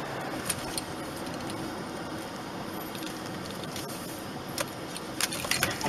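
Steady road and engine noise of a moving car heard from inside the cabin, with a few faint clicks.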